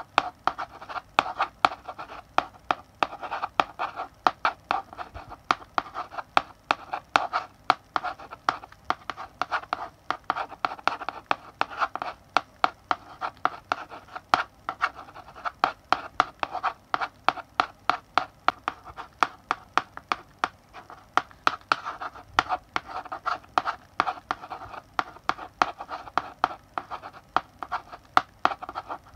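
Chalk writing on a blackboard: a quick string of sharp taps and short scratchy strokes, several a second, as letters are written.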